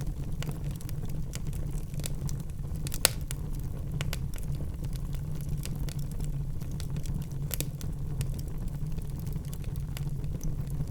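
Wood logs burning in a fireplace: a steady low roar of the flames with scattered sharp crackles and pops, the loudest pop about three seconds in and another just before eight seconds.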